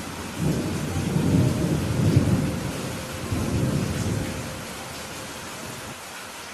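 Steady rain with a rumble of thunder that builds about half a second in, peaks around two seconds and dies away by about four and a half seconds.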